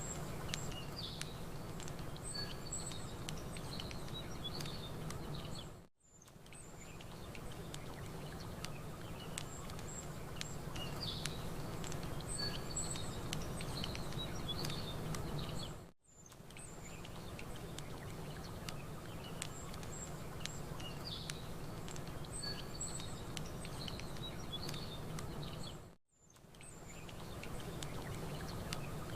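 Campfire crackling with small birds chirping over a steady low rumble. It is an ambience loop that fades out almost to silence for a moment about every ten seconds and restarts.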